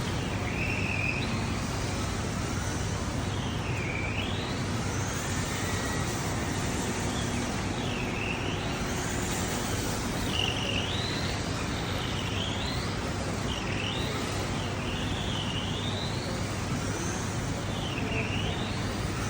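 Tamiya TT02 RC car's electric motor whining, its pitch dipping and climbing again and again as the car slows and speeds up. A steady hiss of rain runs underneath.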